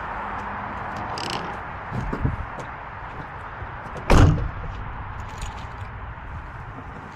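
A car door slammed shut with one heavy thud about four seconds in, after a couple of softer knocks and clicks.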